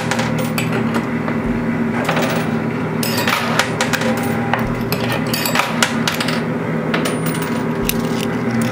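Coin pusher arcade machine: quarters clinking and clattering on the metal playfield in many sharp clicks and knocks over the machine's steady hum. A low thump comes about every three seconds.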